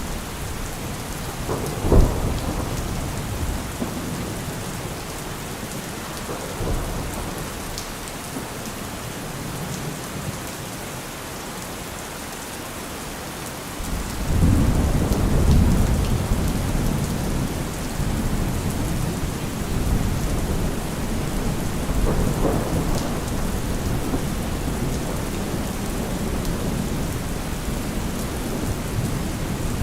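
Steady rain falling, with thunder: a sharp clap about two seconds in, and a long low rumble rolling in about halfway through.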